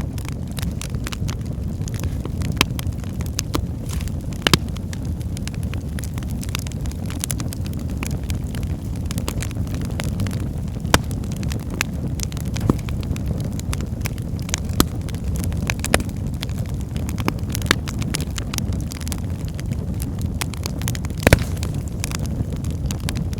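Wood fire in a fireplace burning steadily: a low rumble of flames with irregular sharp crackles and pops from the burning logs, a few louder pops standing out.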